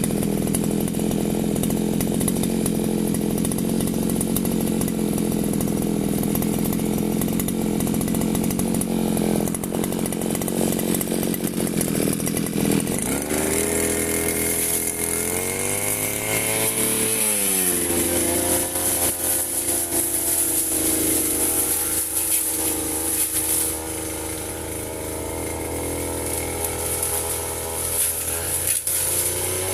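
Firman FGB 528 two-stroke brush cutter engine running at a steady speed, then from a little under halfway through revving up and down, its pitch rising and falling before it settles at a different running speed.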